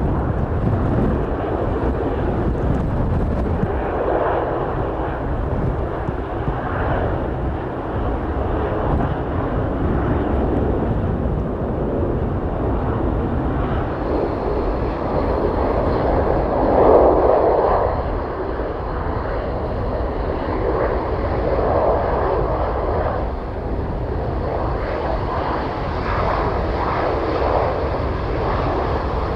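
Fixed-wing aircraft engine noise, a continuous rumble that swells briefly about 17 seconds in.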